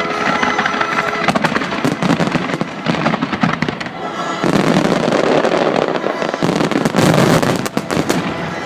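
Starmine fireworks firing in rapid succession: shell bursts and crackling, with the accompanying music faintly beneath. From about halfway the bursts pile into a dense, continuous barrage.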